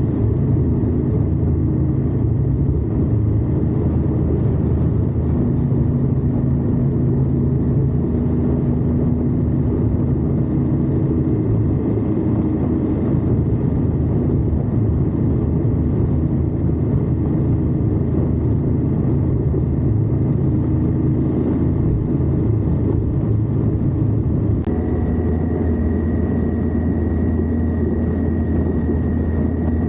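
Indian Scout V-twin engine running at a steady road speed with wind rush. The camera on the lower crash bar puts the engine close. About 25 seconds in, the engine note changes and a faint high whine comes in.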